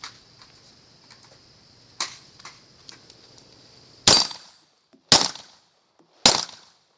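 Three gunshots about a second apart, each sharp and loud with a short tail, fired while the shooter is walking. They are preceded by a few fainter clicks and knocks.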